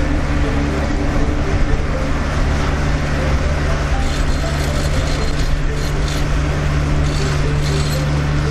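Kubota tractor's diesel engine running steadily under load while tilling, with a faint clatter joining in from about four seconds in.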